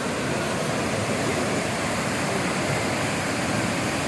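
Steady rushing of water from the large waterfalls of the Kaveri River.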